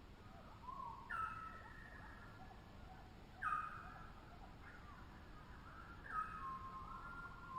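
Tropical birds calling: three loud, short calls, each starting sharply and falling slightly in pitch, come roughly every two and a half seconds, with softer overlapping calls between them.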